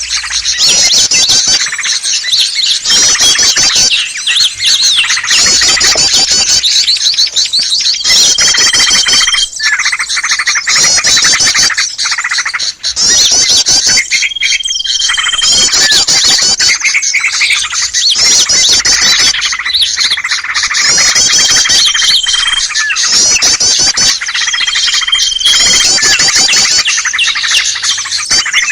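Bird-lure recording of a crowd of small songbirds chattering and twittering without a break in fast, noisy trills, with a long, level whistle cutting in four times. It is a 'pikat' mix played to draw small wild birds in.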